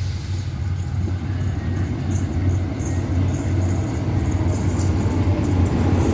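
Diesel locomotive engine running with a steady low drone that grows gradually louder.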